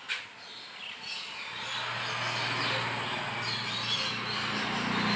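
Small birds chirping in the background, with a low droning hum that sets in about a second and a half in and grows louder toward the end; a single click right at the start.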